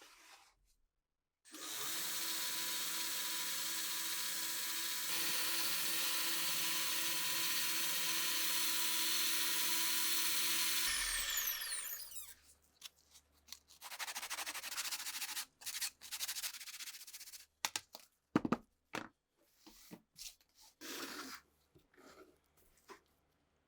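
A small power tool runs steadily for about nine seconds, then winds down with a falling whine as it is switched off. Scattered short knocks and scrapes of parts being handled follow.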